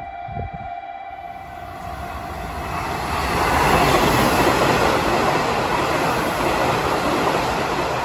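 Nishitetsu electric commuter train passing through the station without stopping. The wheel and rail noise builds over the first few seconds, is loudest from about three and a half to seven seconds in, and eases off near the end as the last car goes by.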